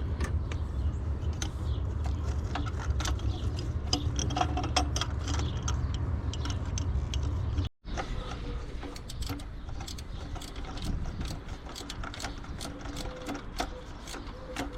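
Ratchet wrench clicking, with tools clinking, while bolts are tightened down and fuel injectors hooked up on a 5.7 HEMI engine. It comes in two stretches of irregular clicks with a brief break about halfway, and a steady low hum runs under the first stretch.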